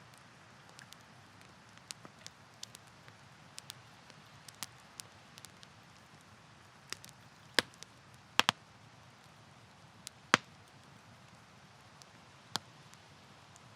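Campfire wood burning, crackling and popping: sharp irregular pops over a soft steady hiss, with several louder cracks near the middle.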